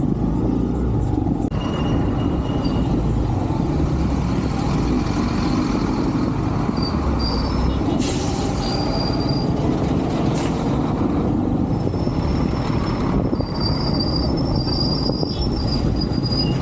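Motorcycle riding on the road: a steady engine and road rumble with wind rush. Thin high-pitched squeaks come and go, mostly in the second half.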